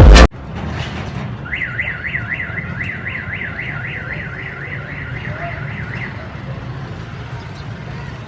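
An electronic warbling alarm, its pitch sweeping up and down about four times a second, sounds for about four and a half seconds over a steady low outdoor rumble. Electronic music cuts off abruptly at the very start.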